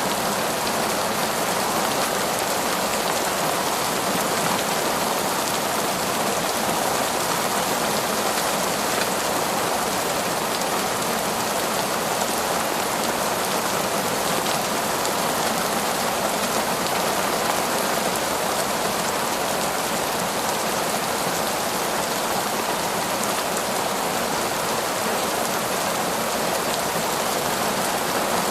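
Heavy torrential rain falling in a forest, a steady, dense hiss that holds even.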